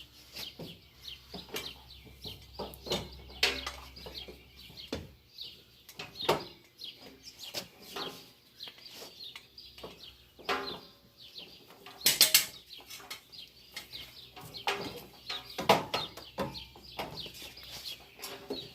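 Chickens clucking and calling in short, irregular bursts, with two louder sharp sounds about twelve and sixteen seconds in. A low hum underneath stops about five seconds in.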